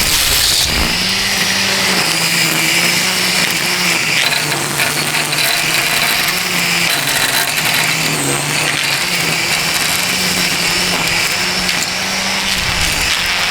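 DEWALT 20V Max brushless cordless string trimmer running at speed: a steady motor hum under the whir of the spinning line, the pitch wavering slightly now and then.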